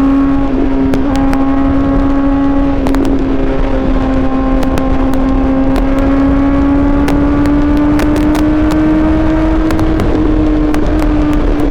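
Suzuki GSX-R750 inline-four engine pulling at high revs, its pitch climbing slowly and then easing off a little near the end, with wind rushing on the microphone.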